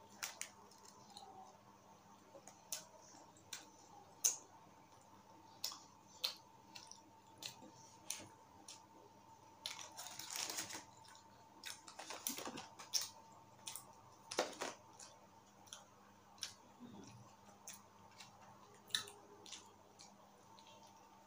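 Close-miked eating: soft chewing with sharp mouth clicks and smacks scattered throughout, as a thick, bready pizza-like pastry is eaten. A brief rustle of a paper food wrapper near the middle.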